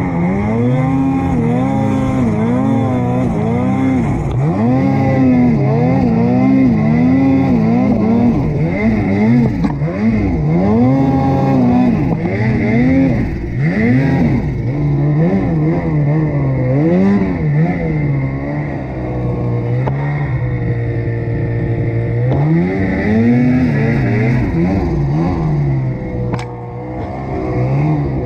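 Snowmobile engine revving hard and repeatedly, its pitch rising and falling every second or so as the throttle is worked while climbing and side-hilling in deep snow, easing off briefly twice near the end.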